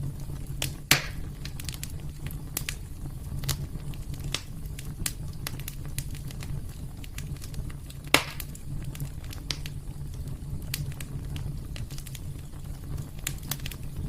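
Wood fire in a fireplace crackling, with frequent small pops and two louder snaps, one about a second in and one about eight seconds in, over a low steady rumble.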